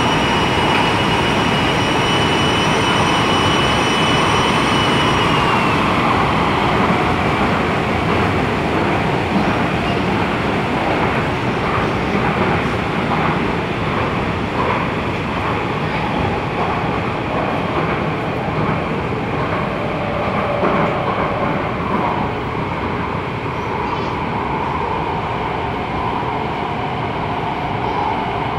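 MTR Tung Chung Line A-Train (Adtranz-CAF electric multiple unit) running at speed, a dense steady rumble of wheels and running gear. A high steady whine from the traction equipment dips slightly and fades about five seconds in. It is followed by a run of clicks from the wheels over the track.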